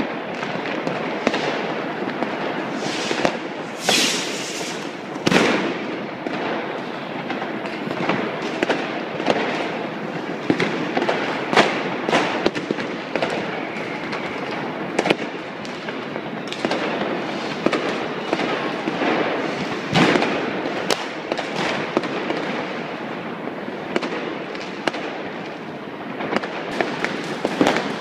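New Year's Eve street fireworks: a dense, continuous din of firecrackers and rockets going off, with sharp, louder bangs scattered throughout.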